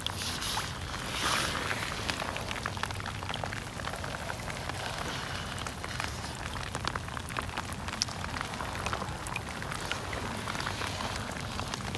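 Rain falling on a water-filled swale and wet mud: a steady hiss of falling water strewn with many small, sharp drop ticks.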